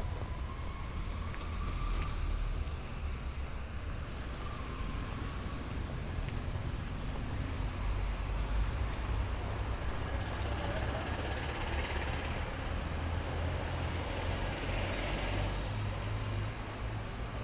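Roadside traffic noise with a steady low rumble; a vehicle passes about ten seconds in, its tyre hiss swelling and fading over several seconds.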